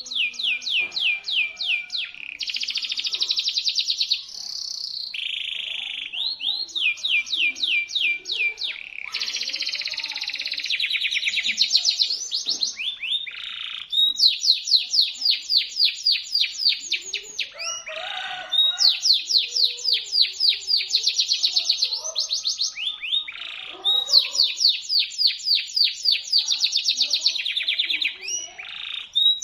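Domestic canary singing at full voice: a long, high-pitched song of fast trills (rolls), each phrase a rapid run of repeated sweeping notes, with short breaks between phrases.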